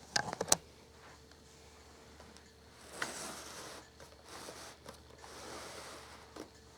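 Handling noise from the table fan being moved: a quick run of sharp clicks right at the start, then two spells of rustling and scraping.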